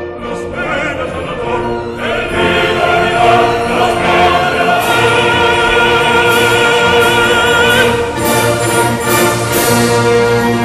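Operatic singing with orchestral accompaniment: voices hold long notes with a wavering vibrato over the orchestra.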